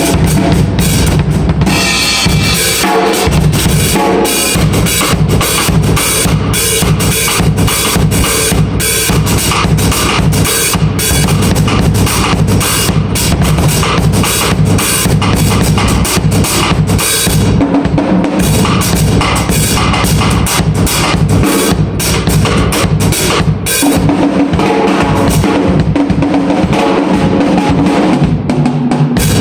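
Drum kit played loudly with fast, dense strokes: bass drum, snare and cymbals hit in quick succession.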